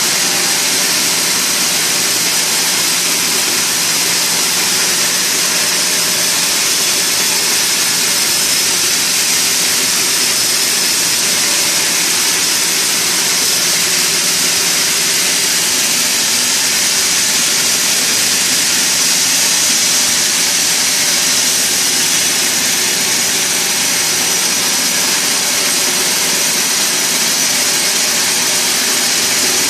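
Sawmill machinery running steadily: a loud, even mechanical noise with a constant hum and a strong high hiss, unchanging throughout.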